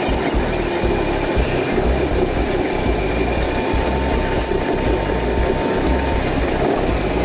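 Osaka Metro New Tram, a driverless rubber-tyred people mover, running along its guideway: a steady rumble and hiss of travel, with a faint steady tone partway through.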